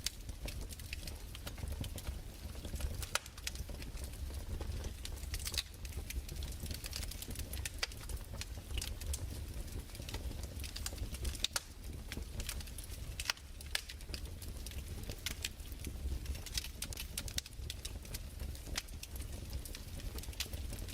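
Crackling fireplace: irregular pops and snaps over a steady low rumble.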